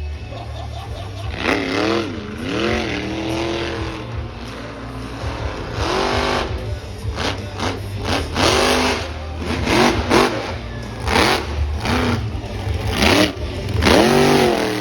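Vehicle engines revving in short repeated blips, the pitch sweeping up and falling back each time, over a steady low engine drone.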